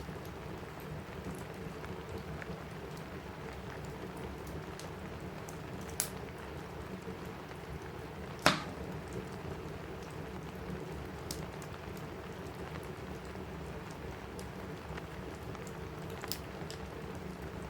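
Steady rain on a cabin roof with a crackling wood fire. A few sharp pops stand out, the loudest about eight and a half seconds in and a smaller one about six seconds in.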